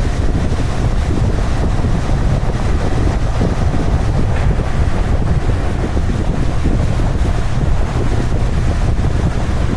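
Wind buffeting the microphone on a moving motorcycle: a loud, steady low rushing with no break.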